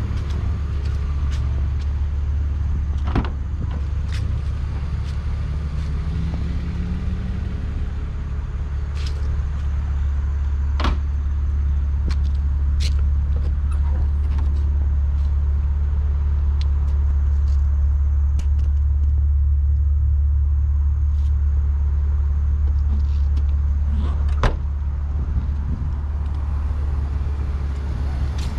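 2003 BMW Z4 2.5i's 2.5-litre inline-six engine idling steadily with the hood open, a constant low hum. A few sharp clicks and taps sound over it.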